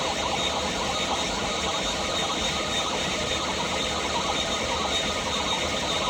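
Live harsh noise music: a dense, steady wall of electronic noise across the whole range, with a thin high tone held over it.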